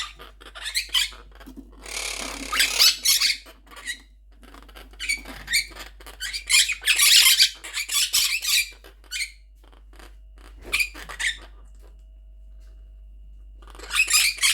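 Quaker parrots (monk parakeets) squawking and chattering in harsh, high-pitched bursts lasting a second or a few seconds each, with a pause of about two and a half seconds before a last burst near the end.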